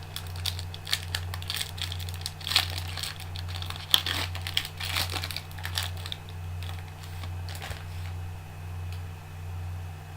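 Trading card box packaging being crinkled and torn open by hand: a run of sharp crackles and clicks for about six seconds, then they stop, leaving only a steady low hum.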